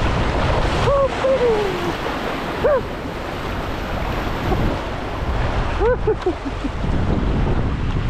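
Wind buffeting the microphone and water moving around a kayak on the river. A few short pitched calls or cries cut through: a falling one about a second in, one near the middle, and a quick cluster about six seconds in.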